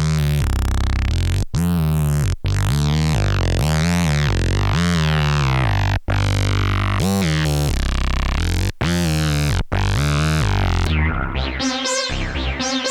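Dreadbox Typhon monophonic analog synthesizer playing a factory preset: low, bass-heavy held notes with a sweeping, shifting brightness above them, broken by a few brief gaps between notes. About eleven seconds in, the sound changes to a brighter pattern of short, quick notes.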